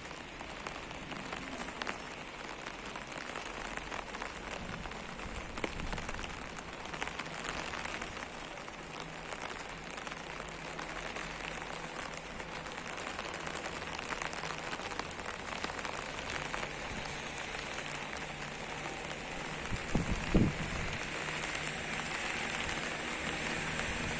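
Steady rain falling and pattering on surfaces, with many small drip ticks. Near the end there are a couple of dull knocks.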